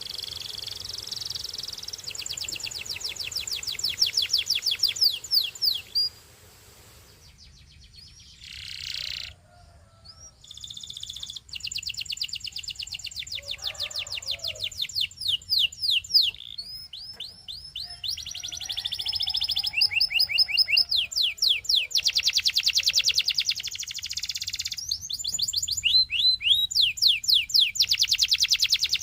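Canary singing long phrases of very fast trills, each a rapid run of repeated high notes, broken by two short pauses and changing trill speed from phrase to phrase.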